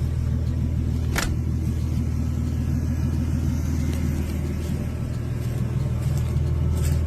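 Car engine running steadily at an even speed, with a single sharp click about a second in.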